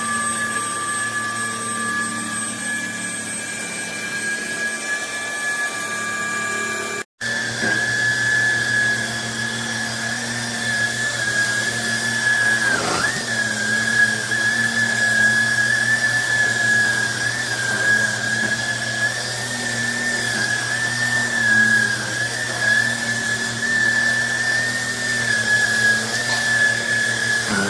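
Cordless stick vacuum cleaner's motor running with a steady high whine. It cuts out for an instant about seven seconds in, and its pitch dips briefly once about halfway through.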